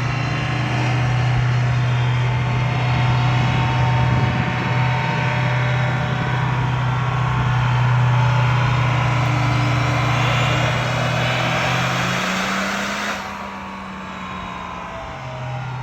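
Diesel pickup running hard on a chassis dyno: a loud, steady low drone with a wide rushing hiss over it. It drops off sharply about 13 seconds in.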